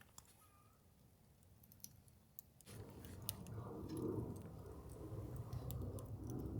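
Faint campfire crackling, scattered sharp pops over a quiet background; about two and a half seconds in, a low rushing sound starts abruptly and grows louder while the pops continue.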